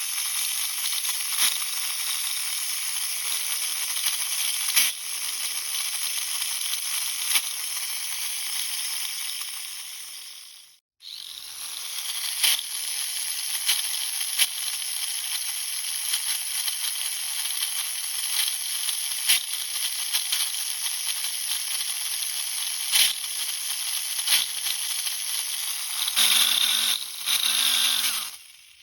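Mini 4WD drivetrain running: a small electric motor spinning the gears with a steady high whir and scattered clicks. It stops abruptly near the middle and starts up again. This is the drive's abnormal noise that the owner wants to cure.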